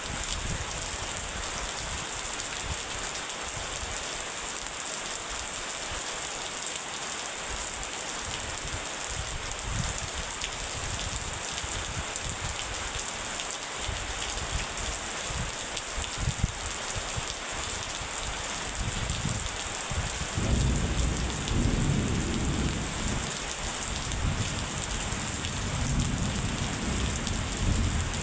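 Steady rain falling, an even hiss of drops. About twenty seconds in a low, rolling thunder rumble swells up under the rain and keeps rolling.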